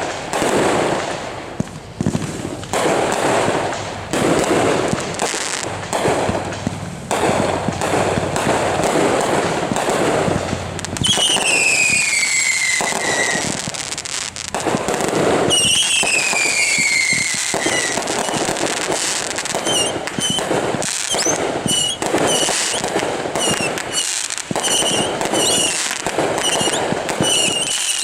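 Consumer fireworks going off in quick succession, with bangs and crackling throughout. Two long whistles fall in pitch about eleven and fifteen seconds in. Near the end comes a run of short, repeated high whistles.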